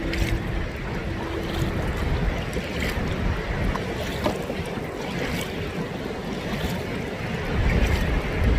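Water sloshing and lapping around an open canoe, with faint light knocks about every second or so, and wind buffeting the microphone.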